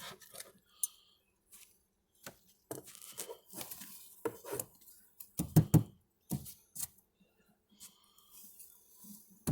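Irregular knocks, clicks and scrapes of wooden beehive parts being handled, with the loudest pair of thuds about five and a half seconds in.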